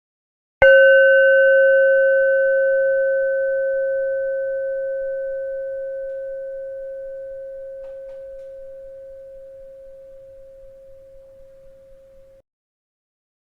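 A bell struck once about half a second in, ringing a clear steady tone with a few fainter higher overtones that slowly fades over about twelve seconds, then cuts off abruptly.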